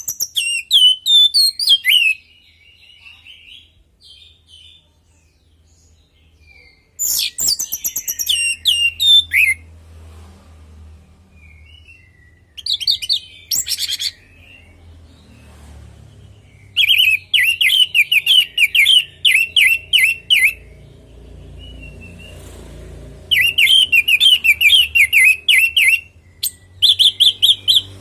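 Orange-headed thrush (anis merah) singing in loud bouts of fast, repeated, sharply sweeping notes, about six bouts separated by pauses of a few seconds.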